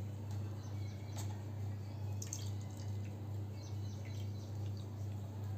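Vinegar being poured into the volcano's container, giving faint trickling and a few drips over a steady low hum.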